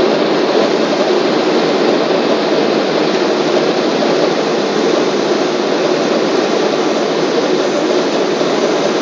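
Boeing 777 cabin noise: jet engines and rushing airflow heard from inside the passenger cabin, a loud, steady noise with no change in pitch.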